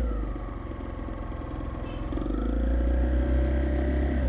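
Motorcycle engine running on the move: the revs drop off over the first second or so, then pick up again with a louder, rising note from about two seconds in.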